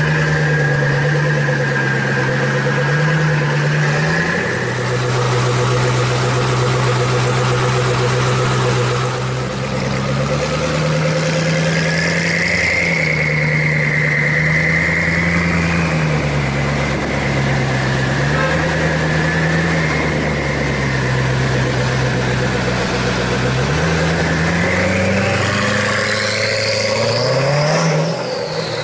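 Koenigsegg One:1's twin-turbo V8 running at idle, its pitch stepping up and down a few times under light throttle, then revving up near the end as the car pulls away.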